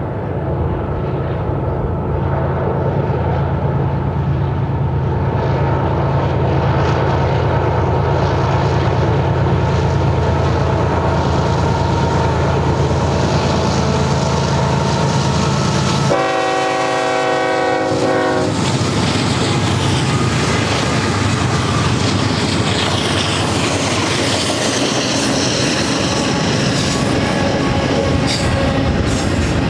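BNSF GE ES44C4 diesel locomotives run past with a steady, deep engine drone, then sound one horn blast of about two seconds a little past halfway. After the horn, double-stack container cars roll by with a steady wheel rumble, and a faint high-pitched wheel squeal comes in near the end.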